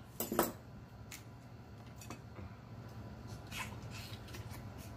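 Two people chewing and smacking their lips as they eat shrimp and crab claw meat by hand. There is a louder smack near the start, then softer wet mouth sounds and a few small clicks.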